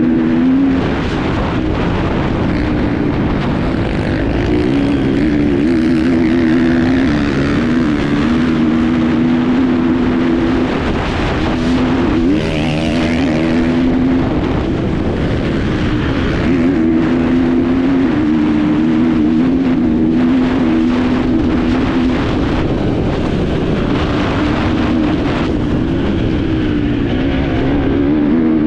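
Enduro motorcycle engine heard from on board, its pitch rising and falling as the throttle opens and closes, over a steady rushing noise.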